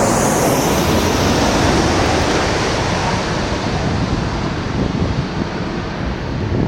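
Boeing 737-800's CFM56-7B jet engines going past on its landing approach: a steady rushing noise whose high hiss and faint whine slide down in pitch and fade over the few seconds.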